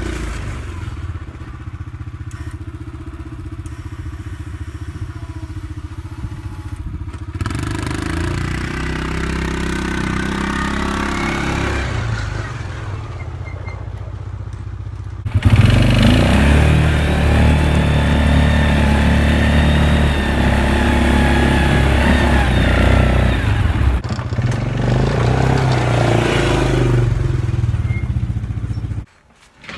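Arctic Cat 500 ATV engine running under load while pushing snow with a plow blade. It gets abruptly louder about halfway in and drops out briefly near the end.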